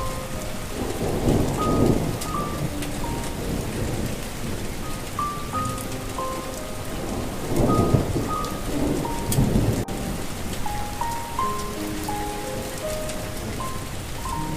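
Steady rain with thunder rumbling twice, about a second in and again around eight seconds, under a slow, soft melody of single notes.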